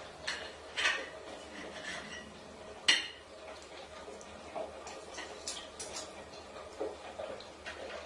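Irregular knocks and clinks of hard objects, like dishes or household items clattering, the loudest about three seconds in.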